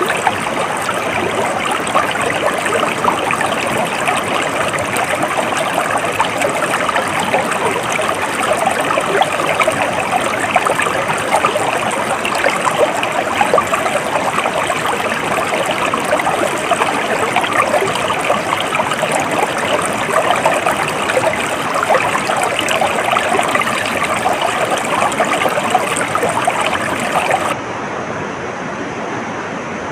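Stream water flowing with a steady, even babble. Near the end it cuts suddenly to a quieter, duller water recording.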